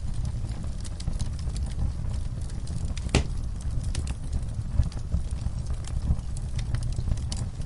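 Wood fire burning in a fireplace: a steady low rumble with frequent small crackles and snaps, and one louder pop about three seconds in.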